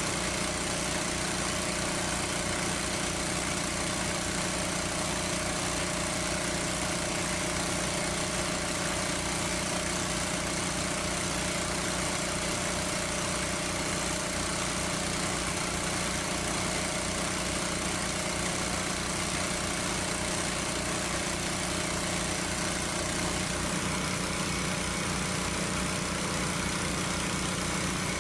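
Small engine running steadily without a break, its tone shifting slightly about 23 seconds in.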